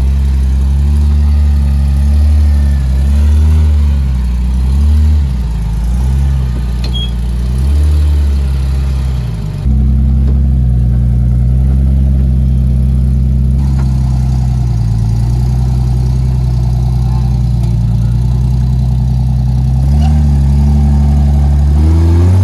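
Jeep SUV engine working hard as it climbs rock ledges, its pitch rising and falling with the throttle. After an abrupt change about ten seconds in, a steadier running note follows.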